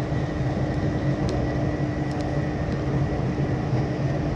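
Passenger train running, heard inside the carriage: a steady rumble of the running gear and rails with a constant low hum and a faint high whine.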